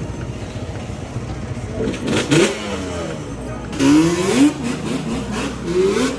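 Dirt bike engine revving up three times in short rising surges, about two seconds apart, over a steady engine drone.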